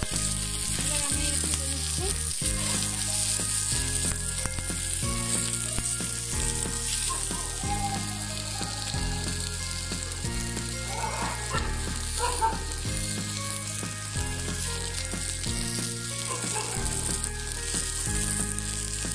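Garlic cloves, onions and green and dried red chillies sizzling as they fry in mustard oil over medium heat, a steady high hiss. Under it, a background music bass line steps from note to note about once a second.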